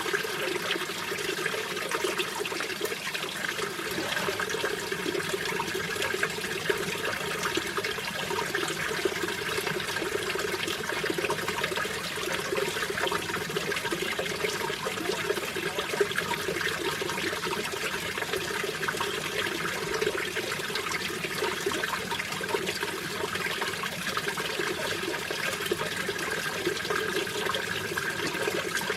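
Mountain stream water rushing and splashing over rocks, a steady, continuous babble.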